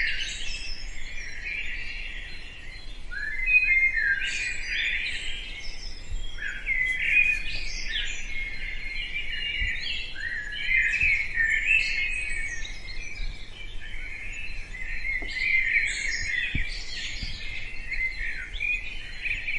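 Many birds chirping and calling at once, a dense chorus of short overlapping chirps and trills.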